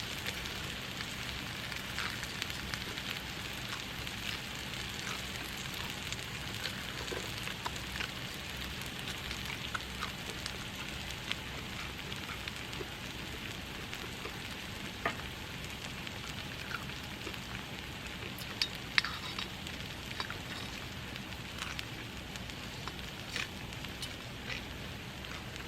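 Food sizzling as it fries: a steady hiss with frequent small pops and crackles throughout.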